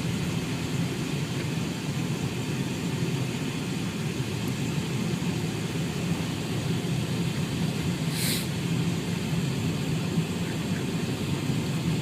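Steady road and engine rumble of a car heard from inside the cabin while driving on snowy roads, with a short hiss about eight seconds in.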